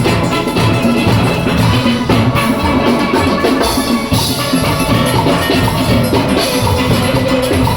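A steel orchestra playing, many steelpans together over a drum-kit rhythm section.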